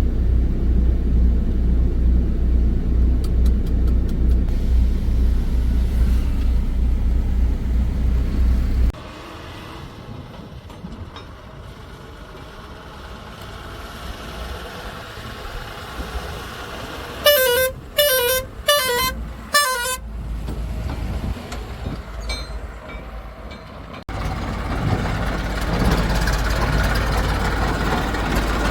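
Heavy diesel machinery engine running loud and close with an even, pulsing rumble, then heard more faintly. About two-thirds of the way through a vehicle horn sounds four short honks in quick succession, each dipping in pitch. The loud engine running returns near the end.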